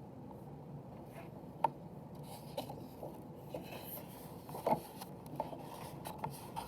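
Light rustling and scattered soft clicks of a picture book being handled, with a denser rustle and louder click about four and a half seconds in, as of a page being turned.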